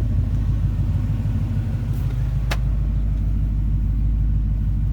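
Freshly rebuilt Ford Coyote 5.0 DOHC V8 running steadily at an even speed. A single sharp click comes about two and a half seconds in.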